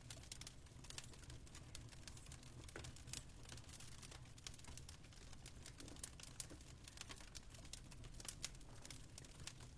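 Fireplace fire crackling softly, with many small irregular pops and snaps over a low steady rumble.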